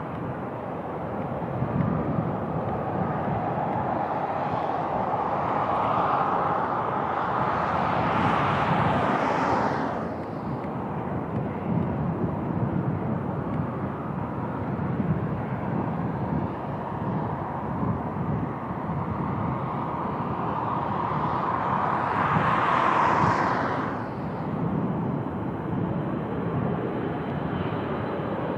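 Beechcraft Super King Air 300 twin-turboprop passing low, its engine and propeller noise swelling and then breaking off sharply, twice. Constant wind buffets the microphone throughout.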